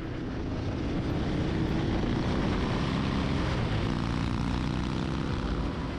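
Motorcycle riding at speed: a steady engine drone under wind rush, swelling in over the first second and easing off near the end.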